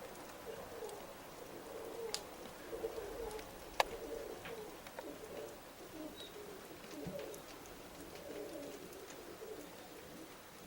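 Domestic pigeons cooing steadily, with a couple of sharp clicks, the loudest about four seconds in.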